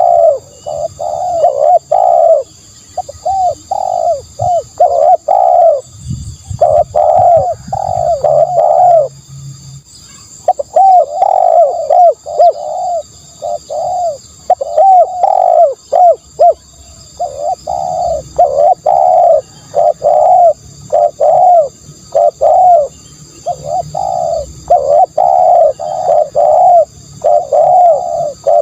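Spotted dove cooing: long runs of short, rounded coos, several a second, broken by brief pauses. This is the kind of call played as a lure for wild doves.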